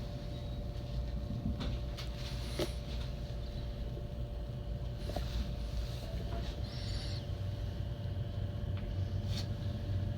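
JR West 225 series electric train standing at the platform: a steady low rumble with a constant electrical hum and a few faint clicks.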